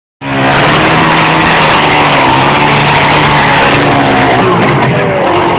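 Motorcycle engine held at high, steady revs, with a dense rushing noise over it. The pitch sags slightly near the end.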